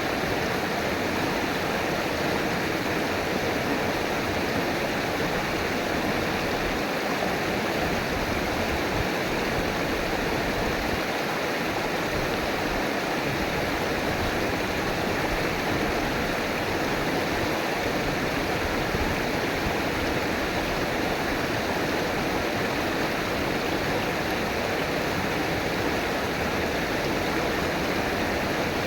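River water flowing and rushing in a steady, unbroken stream.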